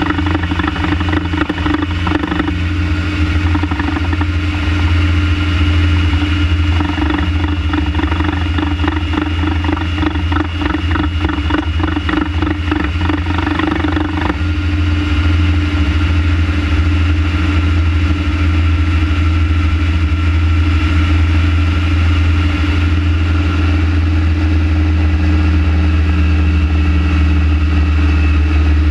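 Renault Trafic van engine running with a steady low drone, the engine that has a vibration problem. From a few seconds in until about halfway, a rapid rhythmic pulsing lies over the drone, then the sound evens out.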